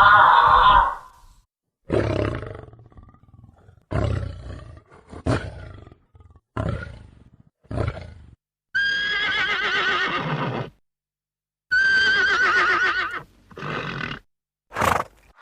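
A series of separate animal calls cut one after another with silent gaps: several short calls about a second apart, then two longer wavering, high-pitched calls, and a few short ones near the end.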